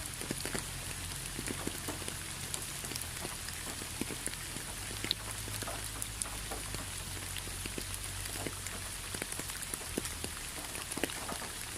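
Rain falling, individual drops landing in sharp irregular ticks over a steady hiss, with a low hum underneath.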